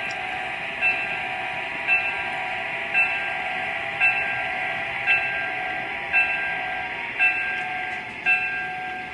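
GP35 model diesel locomotive's onboard sound, its bell striking about once a second over a steady running whine.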